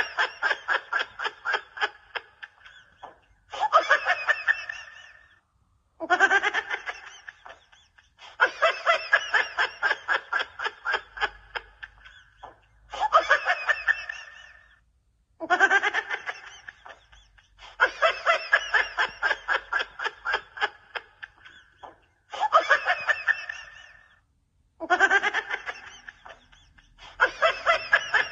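A person laughing hard in repeated fits: each fit is a fast run of ha-ha pulses that starts loud and fades away over a few seconds, followed by a short pause before the next.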